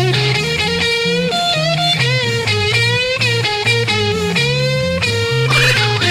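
Live rock band playing an instrumental break: an electric guitar lead with held and bent notes over a walking bass line.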